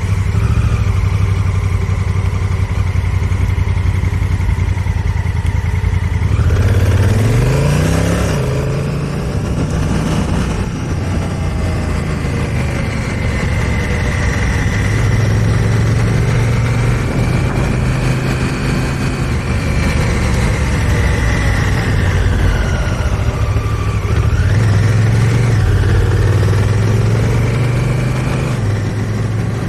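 2018 Honda Africa Twin Adventure Sports' parallel-twin engine running under way at low speed, with rushing wind noise. About seven seconds in the engine note sweeps up sharply and then drops back, and it rises again briefly later on.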